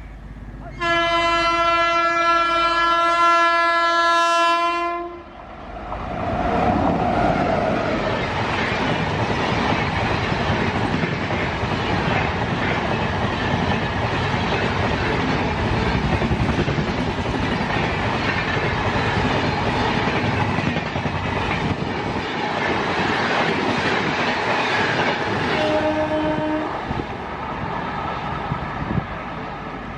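An express train's locomotive horn sounds one long blast for about four seconds, then the train runs through at speed with a loud steady rush and clickety-clack of wheels on rail joints. A short second horn note sounds near the end.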